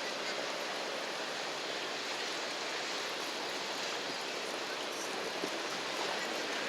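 Steady, even rushing noise of outdoor riverside ambience, with no distinct events.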